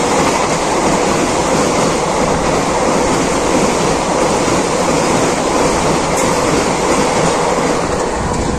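Vande Bharat Express electric trainset passing at about 130 km/h: a loud, steady rush of wheels on rail and displaced air as the coaches go by, easing as the last coach passes near the end.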